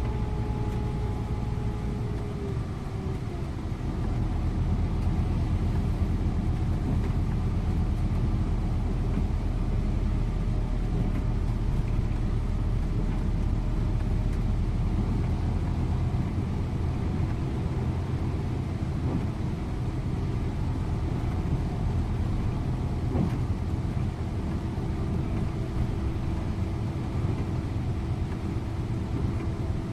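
Scania InterLink coach driving along, its engine and tyres making a steady low rumble as heard from the driver's seat. The engine note drops a little about two and a half seconds in and rises again a few seconds before the end.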